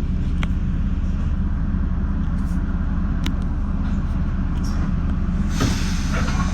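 Steady low rumble inside a Metra bi-level commuter car, with a few faint clicks, and a louder hiss coming in near the end.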